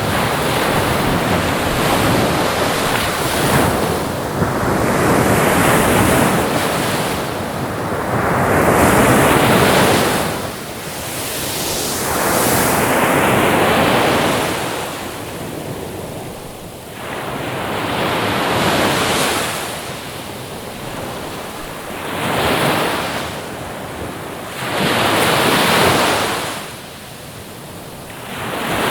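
Ocean waves breaking and washing up the shore, a rushing noise that swells and falls back in slow surges every few seconds.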